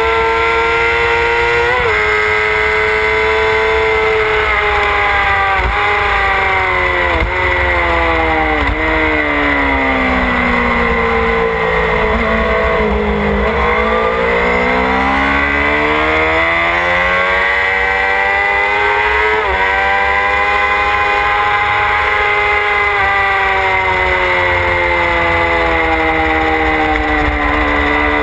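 A race-prepped motorcycle engine heard on board at speed. The revs fall in several steps through gear changes to a low point about halfway, then climb again as the bike accelerates, with another shift about two-thirds of the way in. Wind rumbles on the microphone underneath.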